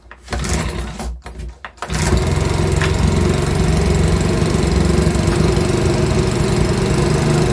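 Makita BHX2500 24.5 cc four-stroke leaf blower engine being pull-started. It catches about two seconds in and runs steadily on full choke, with its tickover screw turned up.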